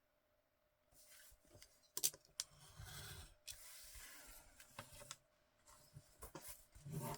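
Old card stock being cut down and handled: a few sharp clicks and stretches of faint scraping, rasping cutting noise.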